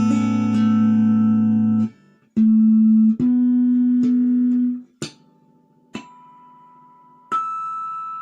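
Guitar music at the end of a piece. Held notes stop about two seconds in, two more held notes follow, and then three single plucked notes sound about a second apart. The last one rings out and fades.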